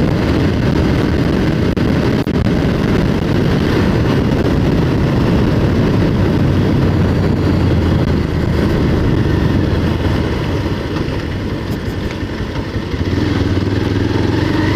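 Motorcycle engine running while riding, with wind and road noise over the rider's microphone. The engine note eases a little about eleven seconds in, then picks up again near the end.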